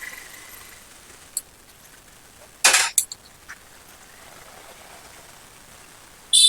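Small metal starter-motor parts clinking and scraping as a new brush holder with its springs is fitted: a short harsh scrape about two and a half seconds in, followed by a click. A high pitched beep starts at the very end.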